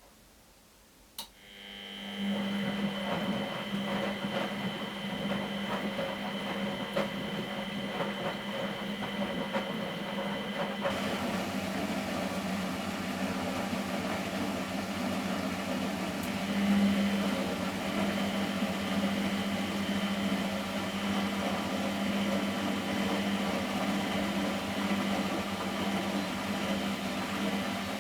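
Miele Professional WS 5426 washing machine: a click about a second in, then a motor starts up within about a second and runs with a steady hum.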